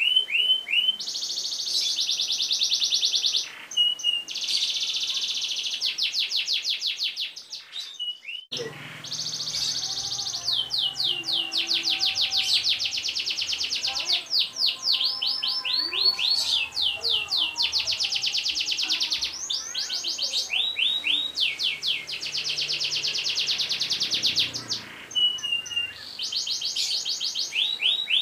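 Domestic canary singing long, rapid rolls: runs of fast repeated notes and buzzing trills, one tour after another. About eight seconds in there is a brief break, and after it a low hum runs beneath the song.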